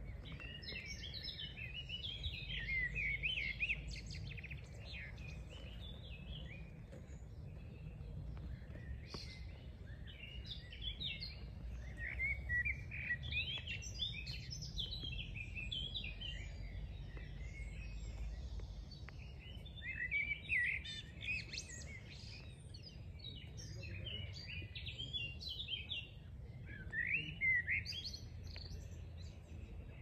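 Wild songbirds singing and chirping in a woodland, in bursts of a few seconds with short gaps between, over a steady low rumble.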